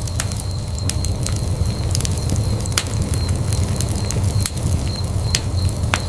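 Fireplace fire burning with a steady low rumble, broken by irregular sharp crackles and pops.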